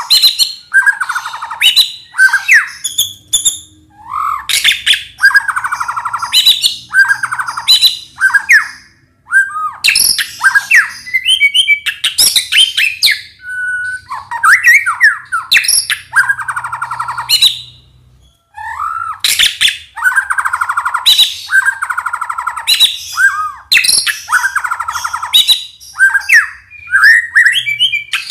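White-rumped shama (murai batu) singing hard and continuously: a string of varied phrases of rapid rattling trills, sharp clicks and short rising and falling whistles, with brief pauses about nine and eighteen seconds in.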